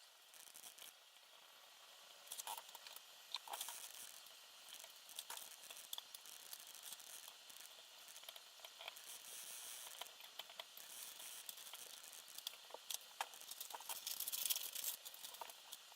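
Small parts and tools being handled during assembly: scattered light clicks and rustling, busiest about three-quarters of the way through.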